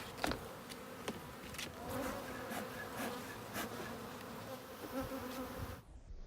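Honeybees from a disturbed colony buzzing steadily, a thick swarm hum, with several sharp clicks over it; it cuts off suddenly near the end.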